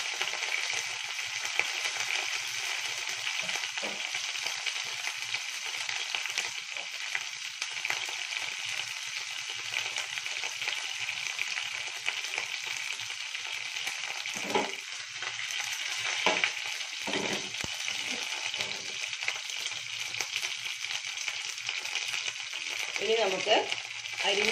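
Curry leaves frying in hot oil in a non-stick pan: a steady sizzle with scattered crackles.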